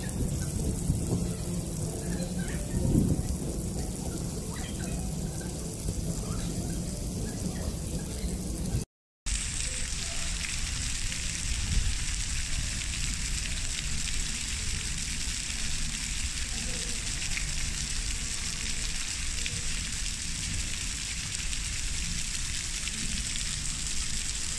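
Heavy typhoon rain pouring down, a steady hiss. Before a cut about nine seconds in, a low rumbling noise with a few knocks.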